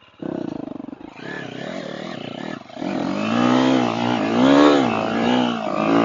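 Dirt bike engine cutting in and then revving, its pitch rising and falling several times as the throttle is worked. It gets louder about three seconds in.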